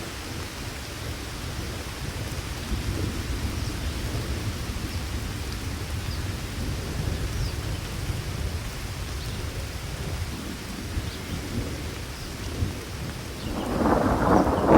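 Steady rain with a low continuous rumble beneath it. About a second before the end, a louder, fuller rush of sound swells up.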